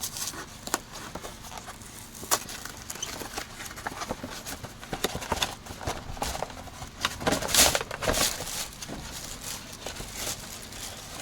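Irregular clicks and knocks of hand work on the engine as a new timing belt is fitted, with a brief louder rustle about two-thirds of the way through.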